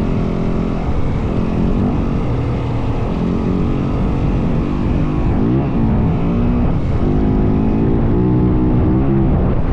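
Yamaha WR450F dirt bike's single-cylinder four-stroke engine running while riding, the revs shifting up and down. The revs rise sharply about halfway through, hold higher for a couple of seconds, then drop near the end.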